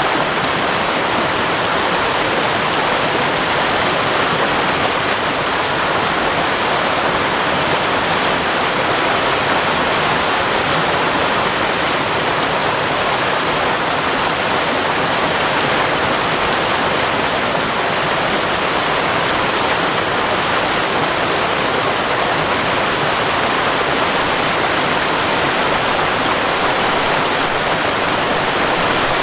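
Seasonal waterfall after rain, water falling and splashing in a loud, steady rush.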